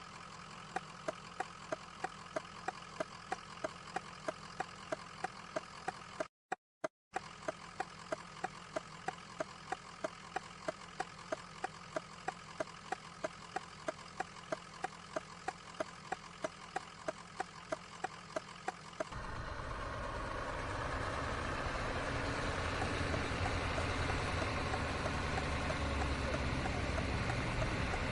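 Inside a Scania truck's cab: the engine runs quietly at idle under an even ticking, about two or three clicks a second, typical of the turn-signal relay. About two-thirds of the way through the ticking stops and a louder, rushing engine and road noise takes over as the truck gets moving.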